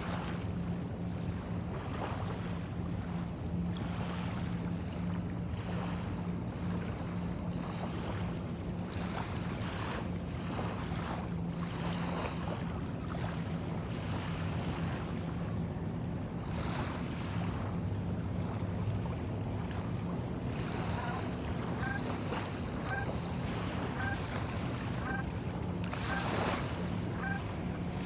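Small bay waves washing and lapping on the shore in repeated swells, over a steady low hum. For the last several seconds a short high note repeats about once a second.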